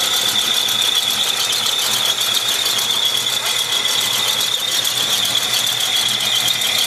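A 1967 Mustang's cammed small-block Ford V8, with long-tube headers and dual exhaust, idling steadily. A constant high-pitched squeal sits loudly over the engine sound.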